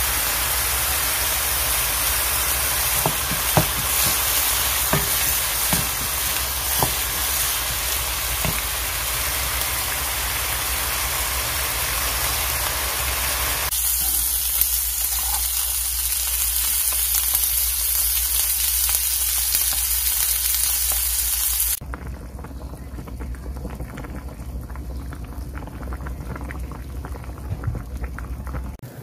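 Cooking sounds in three parts. First, beef bulgogi sizzling and stir-frying in a pan, with sharp clicks of a utensil against the pan. About halfway through comes a hissing sizzle of kimchi dumplings pan-frying in oil. About three quarters through, the sound drops to the quieter bubbling of a pot of seaweed soup boiling.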